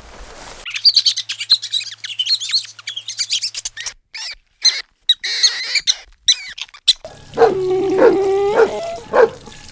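Small birds chirping in a dense, quick chatter of high notes that cuts in and out. About two-thirds of the way in, a dog takes over, whining in a run of short pitched notes.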